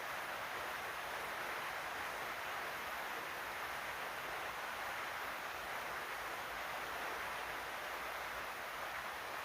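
Heavy rain pouring steadily, an even hiss that does not change.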